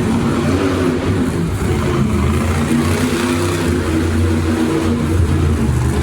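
Monster truck engines running loud under throttle, their pitch holding fairly steady with small shifts.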